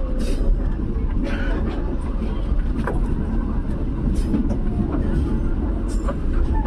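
Passenger train running along the track, heard from inside the carriage: a steady low rumble of wheels on rail with scattered clicks and knocks.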